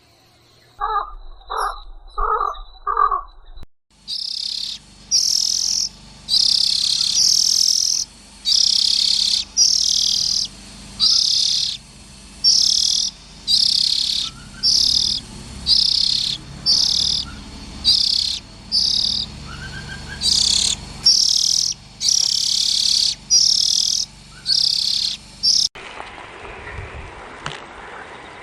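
An animal's high, harsh chirping call, repeated about once a second for some twenty seconds. Before it come four short, lower calls, and near the end it gives way to a steady rushing noise.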